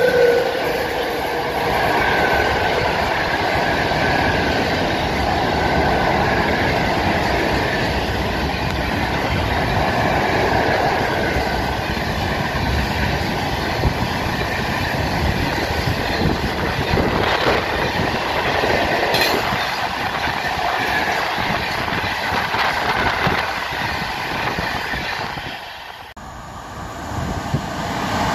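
A loaded freight train of open-top gondola wagons rolling past close by: a steady, loud rush and rattle of steel wheels on rail with clickety-clack over the joints. About two seconds before the end the sound drops off abruptly, and another train is heard coming in.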